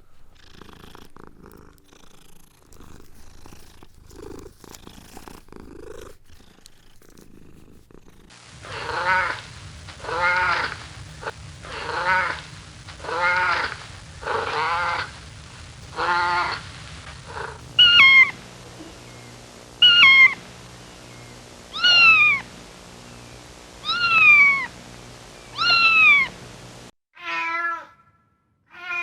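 Cat meowing over and over after a faint start: first six fuller meows about a second and a half apart, then five higher, sharper meows that each fall in pitch, about two seconds apart. Near the end the sound cuts off briefly before one last meow.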